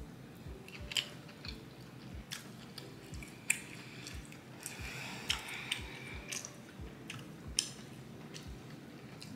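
Close-up chewing of a mouthful of fufu and egusi soup: wet mouth smacks and clicks, with a soft low thud about twice a second.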